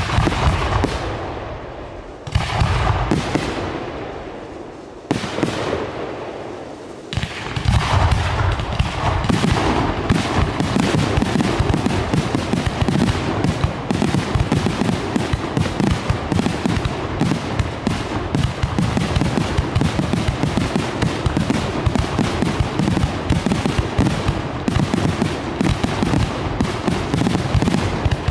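Category F4 display fireworks: a few single aerial shell bursts, each a loud bang that echoes away, about two seconds apart, then from about seven seconds in a dense, continuous barrage of rapid bangs and crackling.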